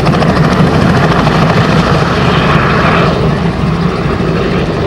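Helicopter running nearby, a loud steady rotor and engine noise with a fast pulsing beat.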